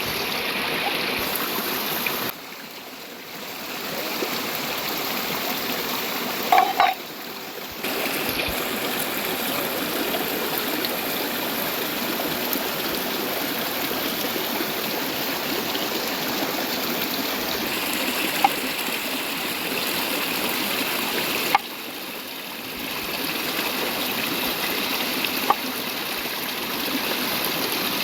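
River water running steadily over rocks, a constant rushing flow. It drops out briefly at a few cuts and is broken by a few small clicks or taps.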